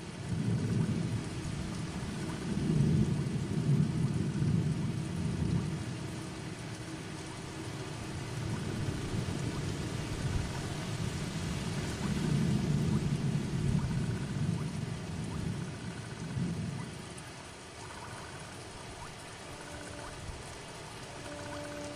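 Steady heavy rain with long, low rolls of thunder that swell twice and then die away, leaving the rain hiss. A few faint held tones sound near the end.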